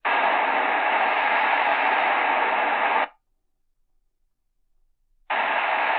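Sony ICF-SW7600GR shortwave radio scanning the band: its speaker plays a static-filled shortwave signal for about three seconds, then cuts out abruptly as the scan mutes and moves on. The static-laden audio cuts back in suddenly on the next frequency about five seconds in.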